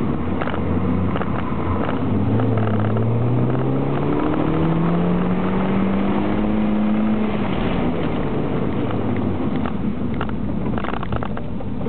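MINI Cooper's four-cylinder engine heard from inside the cabin on an autocross run: it accelerates in one long rising pull from about two seconds in to about seven seconds, then drops off as the throttle is lifted. Tyre and road noise runs throughout, with a few short clicks near the end.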